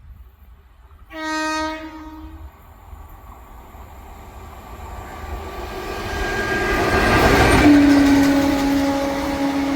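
High-speed Indian Railways express train approaching and passing. Its horn gives a short blast about a second in, then the rumble of the train builds to a peak. The horn comes in again, lower in pitch, as the train goes by and is held to the end.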